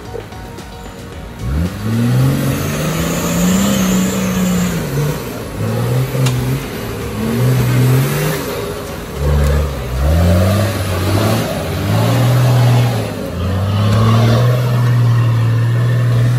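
A four-wheel-drive vehicle's engine revving up and down repeatedly, its pitch rising and falling, then holding a steadier note over the last few seconds.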